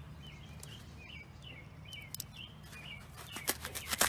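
Small birds chirping in short repeated notes over a steady low hum. Near the end come a quick run of sharp clicks.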